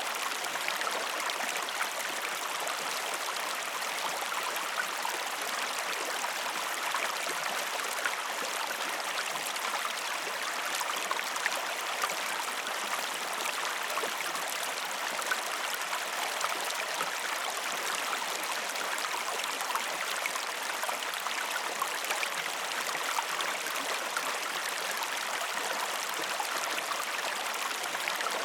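Steadily flowing water, an even rushing with fine splashing and trickling throughout.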